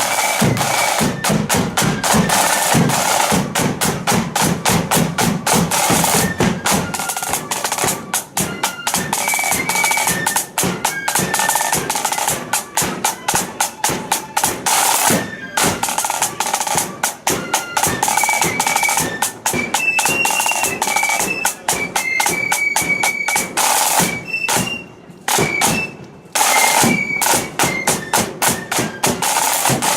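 Marching flute band playing: flutes carry a high melody over fast, dense snare drumming and bass drum beats. The playing briefly thins out about three-quarters of the way through.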